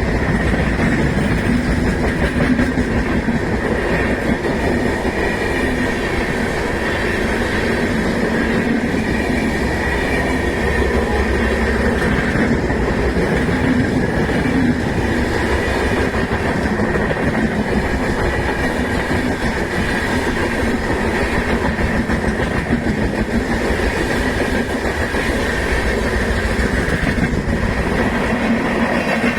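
Train running past on the rails, its wheels clattering in a steady loud rumble that does not let up.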